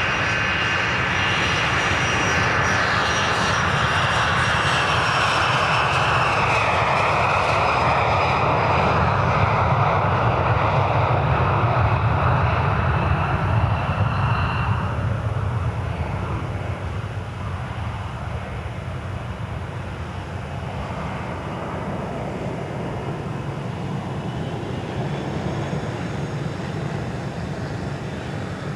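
Learjet 31's twin turbofan engines running loud, a jet roar with high whining tones that slowly fall in pitch; the sound fades to a lower rumble about halfway through as the jet moves away.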